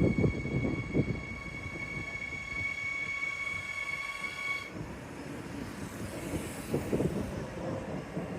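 A train running through the station: heavy rumble and clatter at first, with a steady high-pitched tone that stops abruptly just under five seconds in. A quieter rolling rumble follows.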